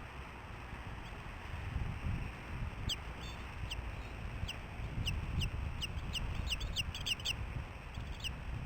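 Wind buffeting the microphone with a low rumble throughout. About three seconds in, a bald eagle starts a run of short, high, downward-slurred piping notes that quicken into a chatter, stopping near the end.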